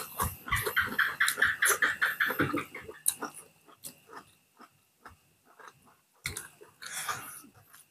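Close-up chewing and wet lip-smacking of people eating rice and boiled pork by hand, in fast runs of clicking mouth sounds for the first three seconds and again near the end, sparser in between.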